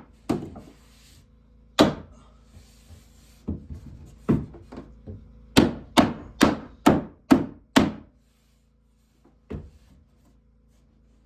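Hammer blows on wood: scattered single strikes, then a quick run of about six blows, a little under half a second apart, before the hammering stops, with one more knock a little later.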